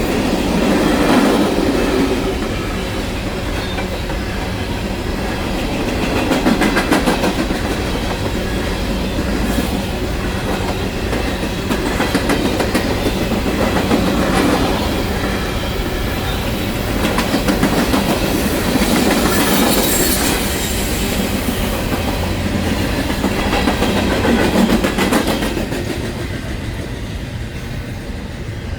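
Freight train cars rolling past at close range, steel wheels clacking over rail joints in a continuous rumble that swells every few seconds, easing off slightly near the end.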